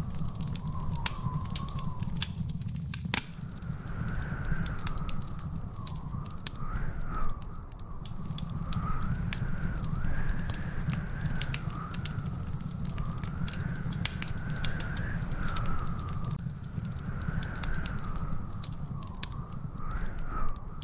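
Wood fire crackling, with frequent sharp pops over a steady low rumble. A thin, wavering whistle-like tone rises and falls throughout.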